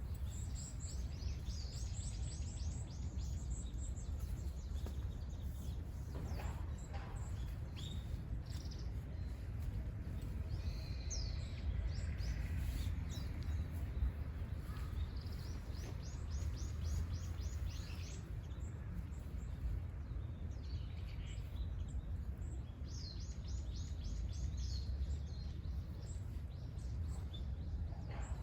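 Wild songbirds singing: three runs of rapid, high, repeated notes, each a couple of seconds long, with a few single calls between, over a steady low outdoor rumble.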